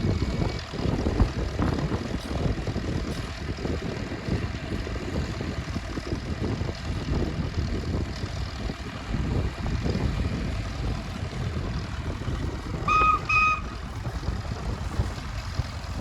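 Steady low rumble of machinery working in the open, with two short toots of a steam ploughing engine's whistle close together near the end.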